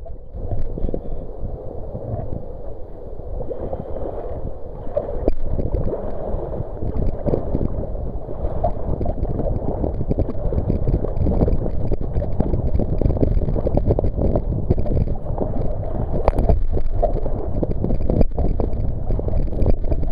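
Wind buffeting the microphone over water sloshing and lapping against a kayak in choppy sea, a steady rumble broken by a few sharp knocks.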